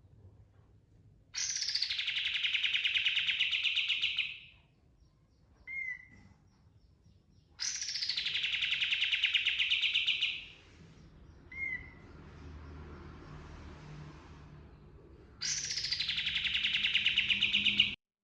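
A kapas tembak (katem) songbird singing its rolling song: three long, fast-pulsed trills of about three seconds each, each opening with a short falling note. Two brief single chirps come between the trills.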